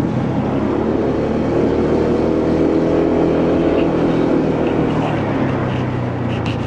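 Motorcycle engine running under way, its pitch rising gently over the first few seconds as it accelerates, then easing off, over road and wind noise.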